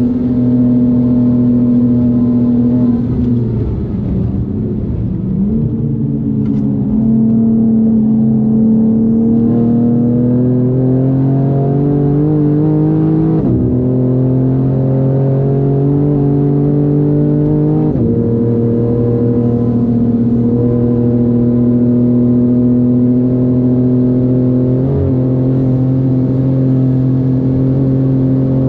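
Tuned BMW M4 (G82) twin-turbo straight-six, about 630 wheel horsepower, driven hard. The engine note dips about three seconds in as the car comes off the throttle, then climbs steadily. Two upshifts follow, about 13 and 18 seconds in, each a sudden drop in pitch, and the engine then runs at a steady, high note.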